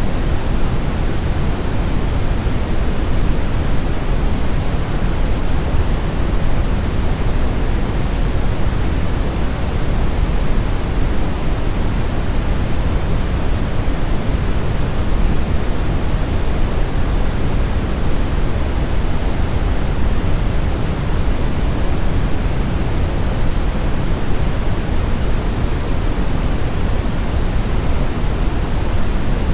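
Steady brown noise: an even, unchanging hiss-like rush weighted heavily toward the low end, like a deep rumble, with no tones or events.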